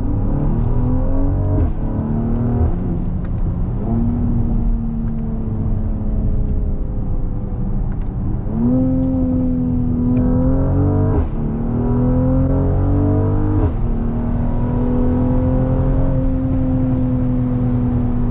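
Mercedes-AMG GLC 43's twin-turbo V6 under hard acceleration, heard through the open sunroof: the revs climb and drop back sharply at each of several upshifts of the nine-speed transmission, then hold fairly steady near the end.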